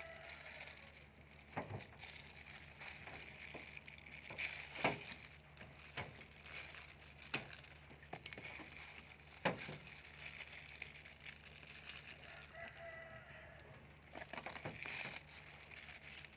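Sharp cracks and knocks as a tough durian husk is prised open by hand and knife. A chicken calls once near the end, over a faint steady background.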